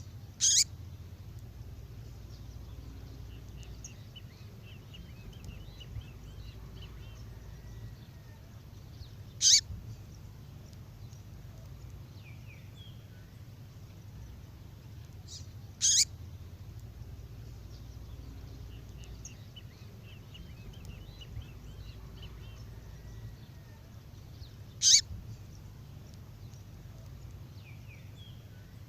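Female songbird call played back: a short, sharp high chirp four times, several seconds apart, with faint high twittering in between. A steady low hum runs underneath.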